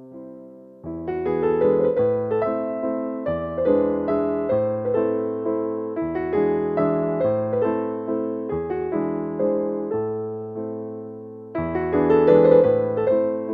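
Background piano music, gentle and slow, with notes struck and left to fade; a quiet gap near the start before the playing picks up again about a second in.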